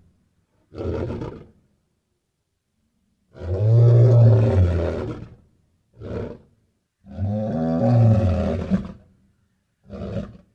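Lion roaring: two long, loud, low roars, each followed by a short grunting call, with a shorter call near the start.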